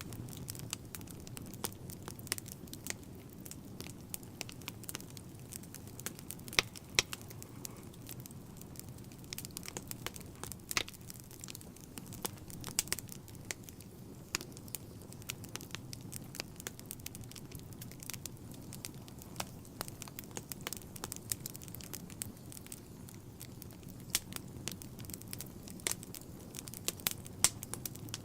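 Wood fire burning in a fireplace: steady crackling with frequent sharp, irregular pops and snaps over a low rumble of flame.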